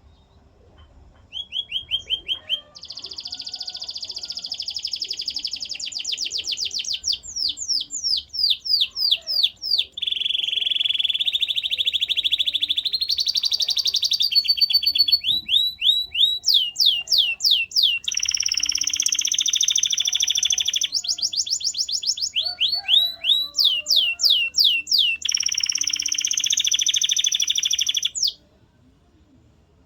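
Male domestic canary singing a long song of rapid trills. Each phrase is a fast run of one repeated note, and the bird switches to a new note and speed every second or two. The song stops shortly before the end.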